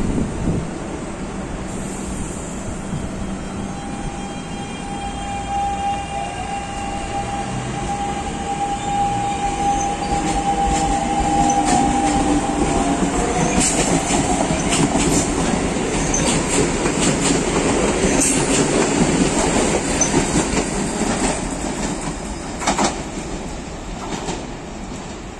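SuperVia 3000-series electric multiple-unit commuter train running past at close range. Its steady running noise carries a high steady whine in the first half, then gets louder around the middle with a run of sharp clicks and knocks from the wheels over the rail joints.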